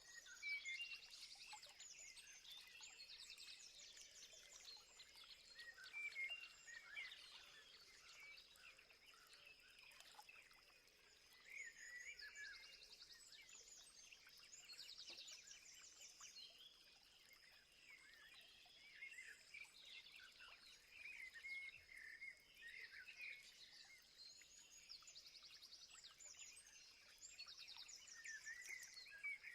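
Faint chorus of several wild birds singing and calling, with short chirps and repeated rapid trills throughout over a thin, steady high tone.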